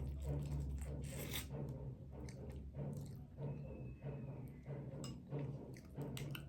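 Crab shell being picked apart and eaten close to the microphone: irregular small clicks, cracks and scraping rubs.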